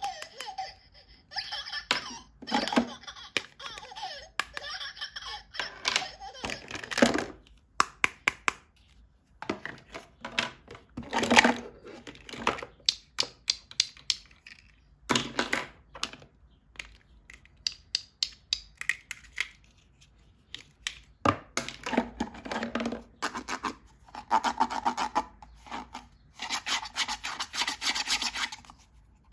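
Plastic toy parts and packaging being handled and unpacked: a run of quick clicks and taps with bursts of crinkling.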